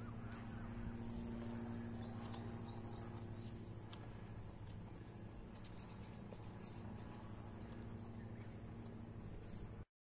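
A bird calling over and over in short, high chirps that each slide downward, about two a second, growing more distinct partway through, over a low steady hum. The sound cuts out briefly near the end.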